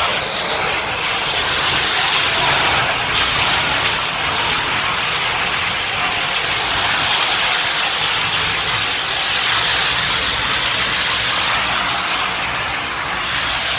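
Steady, loud rushing hiss from a burning CNG-fuelled garbage truck.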